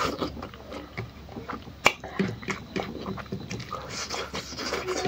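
Close-up mouth sounds of a man chewing a mouthful of rice and smoked pork: irregular wet chewing, biting and smacking, with a sharp click about two seconds in.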